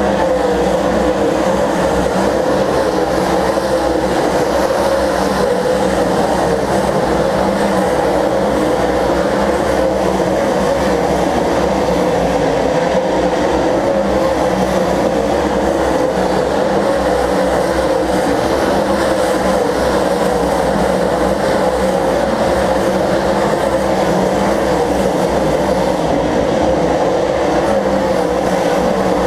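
A field of stock car engines running laps together, a loud, steady drone with no break.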